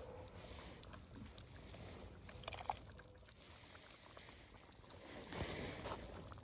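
Soup being ladled from a cast iron Dutch oven into a small cook pot: faint pouring and sloshing, with a couple of light clinks about two and a half seconds in and a louder rush of liquid near the end.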